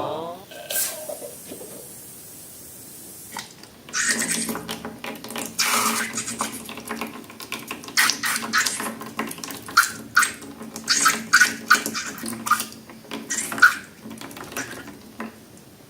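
Thick slime liquid being poured and squished: a soft hiss about a second in, then irregular wet splats and crackles for most of the rest.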